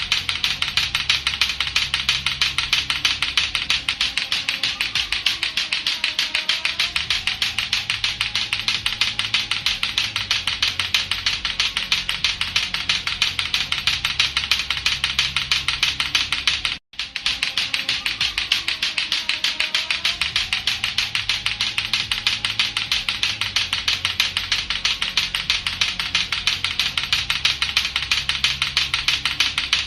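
Latto-latto clackers, two hard plastic balls on a string, knocking together in a fast, even rhythm of about five clacks a second. The sound cuts out briefly about two-thirds of the way through, then carries on.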